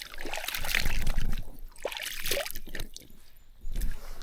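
Water splashing and trickling, loudest in the first two seconds, with a low rumble of handling or wind underneath.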